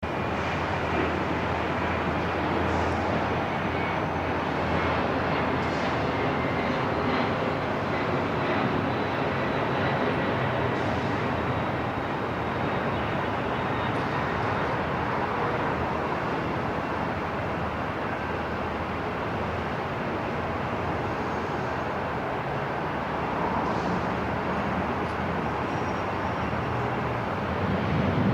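Airport ambience: a steady, even rush of background noise with a faint high tone running through it.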